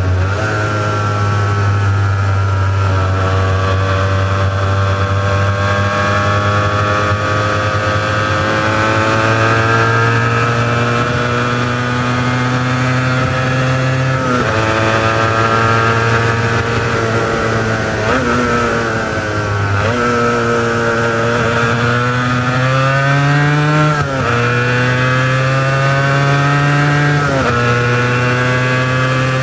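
Honda NS400R's two-stroke V3 engine with its original exhausts, ridden under load. Its pitch climbs steadily and then drops sharply several times as the revs change.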